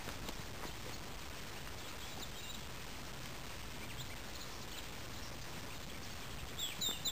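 A small songbird singing quick high chirps, a few faint ones early and a louder run near the end, over a steady outdoor hiss with faint rustling steps in grass.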